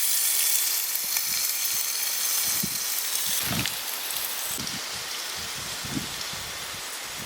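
Food sizzling in a hot pan, a steady hiss that slowly dies down, with a few soft low thumps about halfway through.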